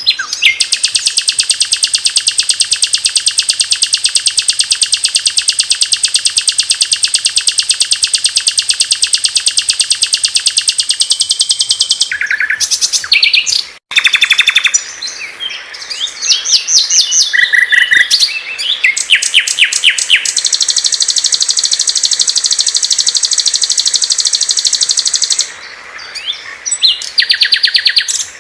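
Small songbirds singing loud, high masteran song: a long, very fast, even trill lasting about twelve seconds, then a sudden cut. After it come varied chirps and short trills and a second long fast trill of about five seconds.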